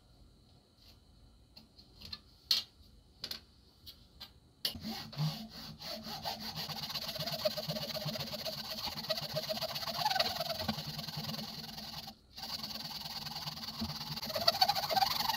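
A few scattered light clicks and taps, then about a third of the way in a steady abrasive rubbing on the knife's metal starts, pausing for a moment about two-thirds in before going on.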